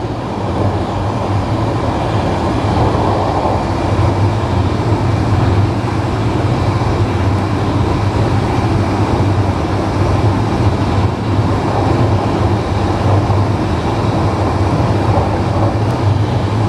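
Passenger train running along the line, heard from inside at the front of the train: a steady rumble of wheels on rail over a low hum, without letup.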